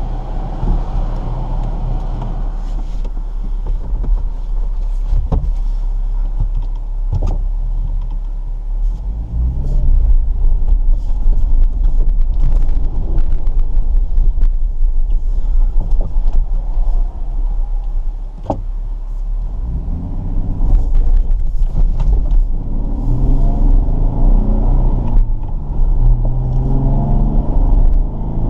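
Jeep engine running under load with a heavy low rumble, its pitch rising and falling as it is revved, most strongly about a third of the way in and again over the last third. Scattered knocks and clunks sound over the engine.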